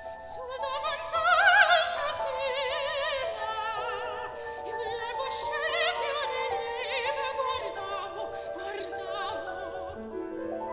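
Classical soprano singing with wide vibrato over piano accompaniment, with a loud high phrase about a second and a half in.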